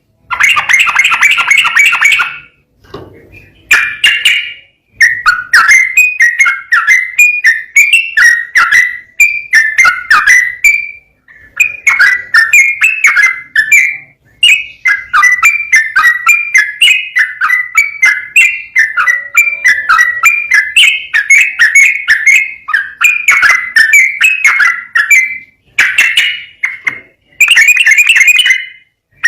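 Yellow-vented bulbul (trucukan) singing a long, rapid run of bright chirping phrases, broken only by a few short pauses.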